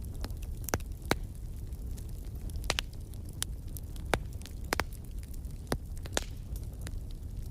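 Wood fire burning in a fireplace: a low steady rumble with irregular sharp crackles and pops of burning logs, a few louder snaps among many small ticks.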